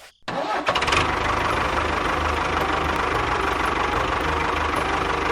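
An engine starting about a third of a second in, with quick ticking at first, and then running steadily.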